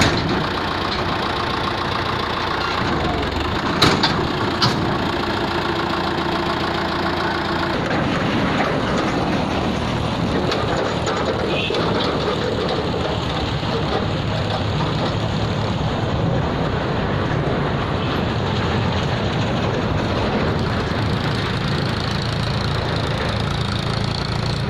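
Farmtrac 60 tractor's diesel engine running steadily while its hydraulics unload a trailer, with two sharp knocks about four seconds in and a change in the engine's tone about eight seconds in.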